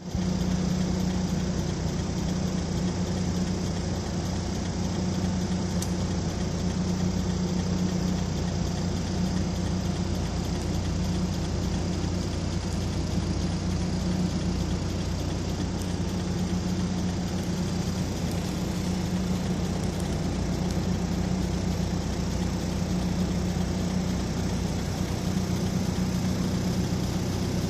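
An engine running steadily at idle: an even, unbroken low hum.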